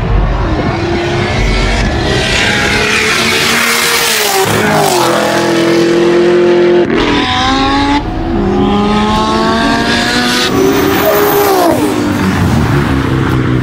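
Performance car engine revving hard, its pitch climbing and then dropping sharply twice, once about four seconds in and again near the end.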